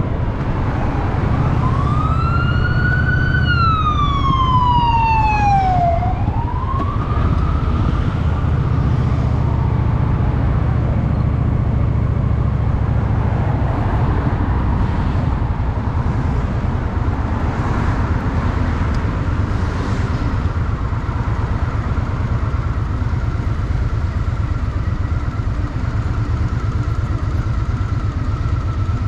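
Honda Shadow VT750's V-twin engine running steadily. Over the first several seconds a siren wails slowly up and down, then fades.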